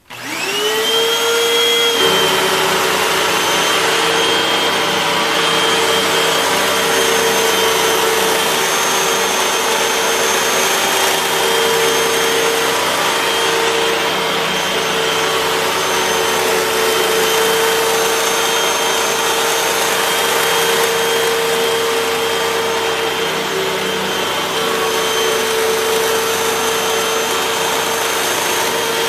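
Hoover WindTunnel 3 Pro Pet upright vacuum cleaner switched on: the motor's whine rises to full speed within about a second, then runs steadily with a high whine over a rush of air. About two seconds in the sound fills out with a lower rumble.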